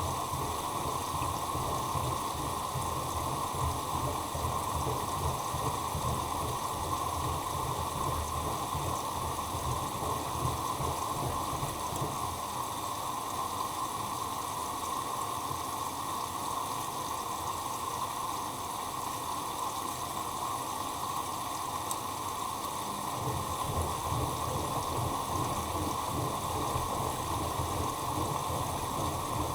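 Bosch Maxx Advantage WFCX2440 slimline front-loading washing machine in its wash phase: a steady rush and splash of water in the drum. A low rumble under it fades for about ten seconds midway, then comes back.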